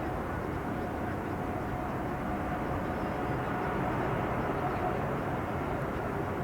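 Boeing 787-9's twin jet engines at takeoff power: a steady, even rumble with a faint constant whine.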